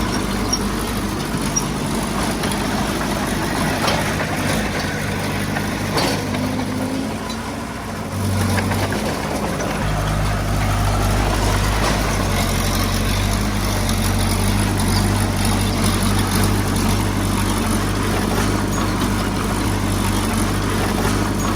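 Heavy diesel engine of earthmoving equipment running steadily. The engine drops back for a few seconds, then picks up again about ten seconds in.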